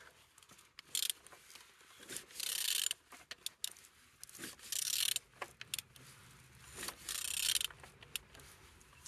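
A used vehicle engine being turned over by hand: four short rasping strokes about two seconds apart, with light clicks between them. The engine turns freely.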